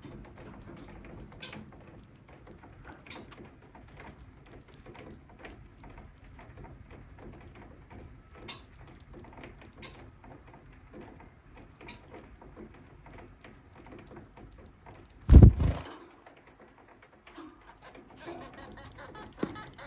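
Bengalese finches giving short, scattered chirps and small clicks over a steady low hiss. About fifteen seconds in comes one loud thump lasting under a second.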